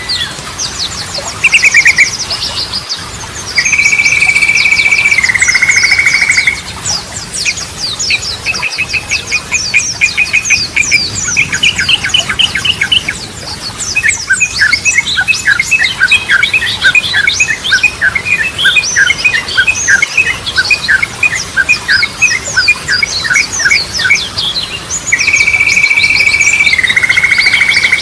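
Sooty-headed bulbul song: a held note that steps down in pitch after about two seconds, given twice, once near the start and again near the end. Between them comes a fast, even run of chips, and above it all there is dense high chattering.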